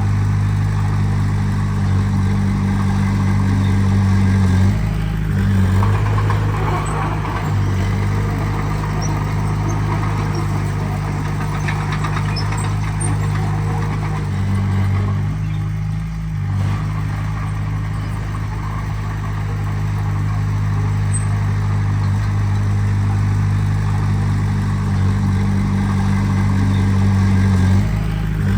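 Heavy-equipment diesel engine running steadily, its pitch shifting briefly about five seconds in, again around the middle, and near the end.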